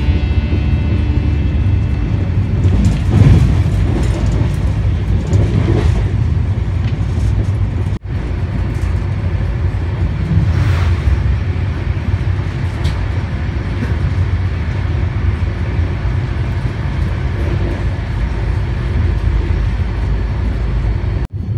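Shatabdi Express passenger train running at speed, heard from inside the coach: a steady low rumble of wheels on the rails, briefly cutting out twice.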